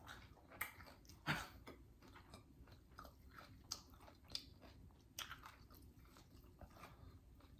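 Close-up chewing of crunchy cornmeal-crusted fried Spam: a faint, irregular run of crisp crunches and mouth clicks, the loudest about a second in.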